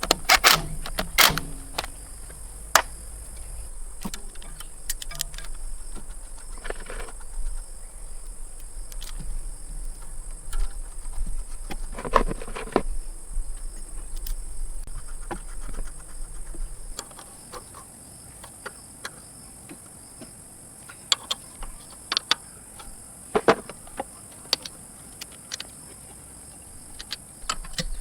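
Scattered sharp clicks and knocks, as of hand work on metal parts, over a steady high-pitched buzz; a low hum stops about two-thirds of the way through.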